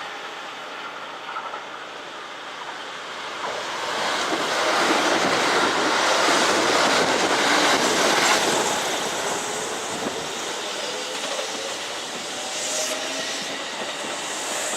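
Kintetsu electric train running through the station, its noise swelling to the loudest about four to eight seconds in, then easing off with a faint whine that slides in pitch.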